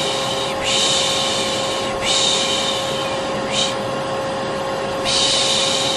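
Vacuum cleaner running steadily with a constant motor hum, overlaid by repeated long 'shh' shushing sounds of the kind used to calm a baby to sleep, each lasting about a second, with a short pause partway through.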